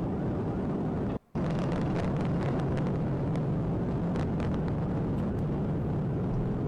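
Steady road and engine rumble of a police Dodge Charger driving, as picked up by its dash camera. The sound drops out briefly just over a second in, then carries on unchanged.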